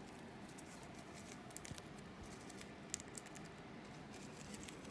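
Faint, scattered light clicks and taps, with one sharper tick about three seconds in.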